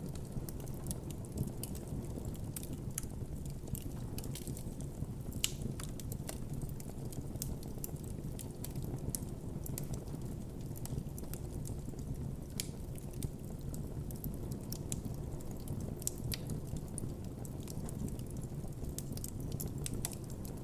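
Wood campfire crackling and popping: many sharp, irregular snaps over a steady low rumble of the burning fire.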